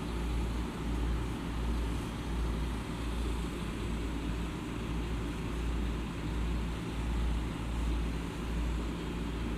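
Steady interior noise of a JR East E231 series commuter train car at a standstill just before departure: an even low hum from the onboard equipment, with no distinct knocks or rising motor whine.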